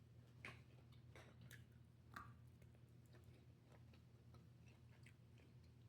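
Faint chewing of salad with soft mouth clicks, two of them a little louder about half a second and two seconds in.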